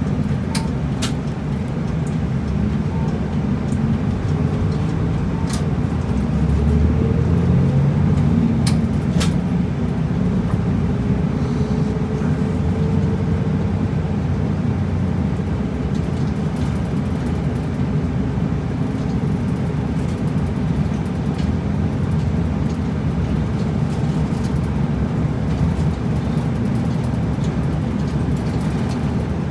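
Route bus under way, heard from inside the cabin: steady low engine drone and road noise, briefly louder a few seconds in, with a few sharp clicks or rattles.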